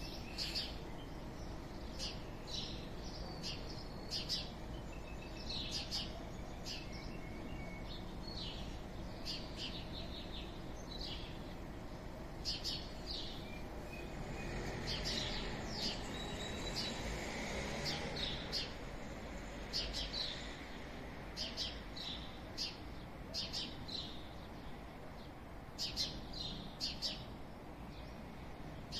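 Small birds chirping in short, scattered high calls over a steady low hum of distant town noise, which swells briefly about midway.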